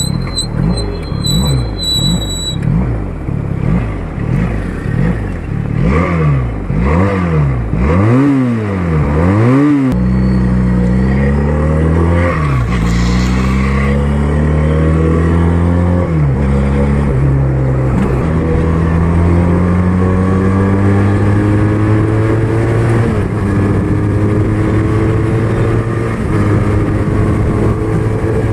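QJ Motor SRK400's 400 cc parallel-twin engine: a string of short, quick revs, then three bigger revs that climb high and fall away about a third of the way in. After that the engine pulls steadily, its pitch climbing slowly and dropping several times, as when shifting up through the gears under acceleration.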